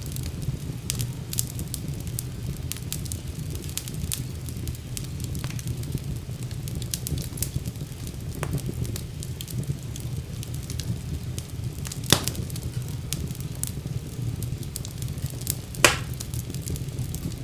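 Wood fire burning in a fireplace: a steady low rumble of flames under frequent small crackles, with two louder pops, one about two-thirds of the way in and one near the end.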